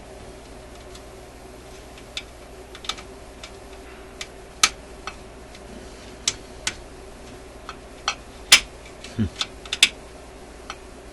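Irregular light metallic clicks and taps of a hand-bent makeshift screwdriver working against a screw head, about a dozen spread unevenly, with the loudest near eight and a half seconds in and a quick cluster just after.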